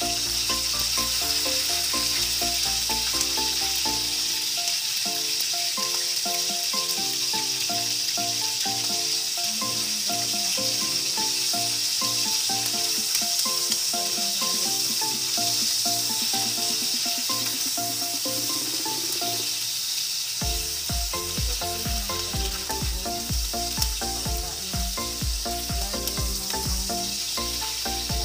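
Chicken livers sizzling as they fry in oil in a nonstick pan, stirred with a spatula. Background music plays underneath, and a low, regular beat comes in about two-thirds of the way through.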